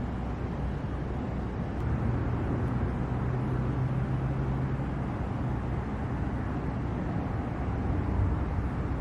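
Outdoor city street ambience: a steady low rumble of traffic, with a vehicle engine hum rising a little louder from about two to five seconds in.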